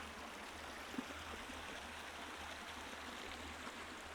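Faint, steady rush of a river flowing, with a single light knock about a second in.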